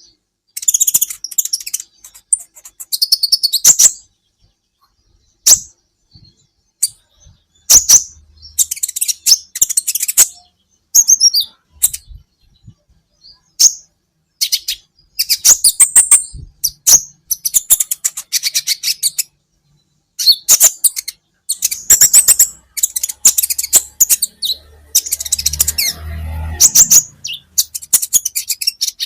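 Kolibri ninja sunbird singing: bursts of rapid, very high-pitched chirps and trills, broken by short pauses.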